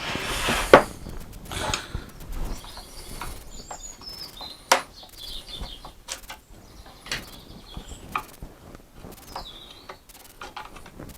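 Sharp knocks and light clatter of wooden workpieces being handled, with two louder knocks, one under a second in and one about five seconds in. Small birds chirp in the background.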